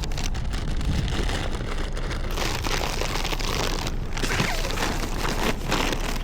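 Crinkling and rustling of a bag being handled, over a steady low rumble.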